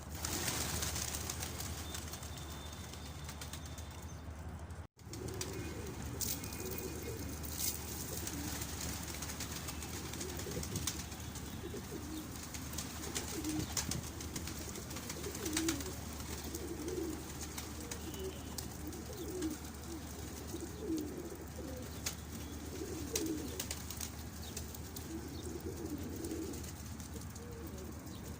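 Domestic pigeons cooing over and over, low warbling coos, with a brief cut-out of all sound about five seconds in.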